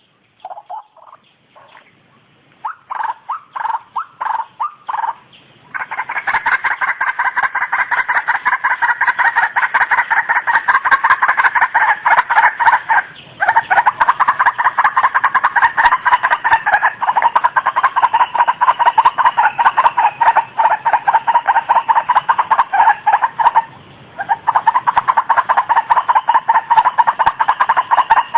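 White-breasted waterhen (ruak-ruak) calls: a few separate notes, then from about six seconds in a loud, rapid run of repeated croaking calls, broken twice by brief pauses.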